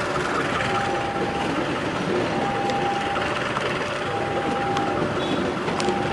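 Coaches of the Sancaka passenger train rolling past, a steady rush of wheels on rail with a few sharp clacks. Over it the level crossing's warning alarm keeps sounding, a high note of under a second alternating with a lower one, the high note coming back about every two seconds.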